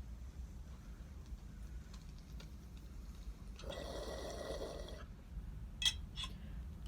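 Water in a small glass bong bubbling for about a second and a half as someone draws a hit, followed by two sharp clicks.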